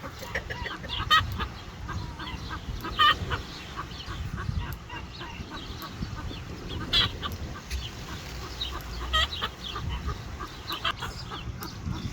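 A small flock of young bantam Easter Egger chickens making short, scattered calls and clucks, a few louder than the rest, over a low rumble.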